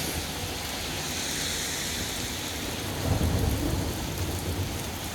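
Thunder rumbling, swelling to its loudest about three seconds in, over the steady hiss of falling rain.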